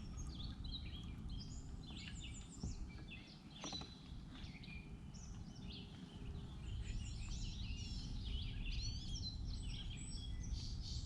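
Several birds chirping and trilling repeatedly over a steady low rumble that grows slightly louder partway through.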